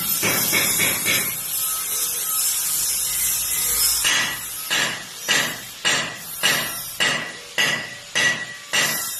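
A hammer striking steel, first in quick blows, then a steady crackling hiss of a gasless flux-core MIG welding arc for about three seconds. After that come regular ringing hammer blows on metal, about two a second.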